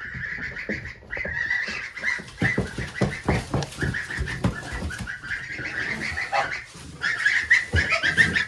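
Poultry calling in a coop: a run of short, high-pitched calls repeated over and over, mixed with scattered knocks.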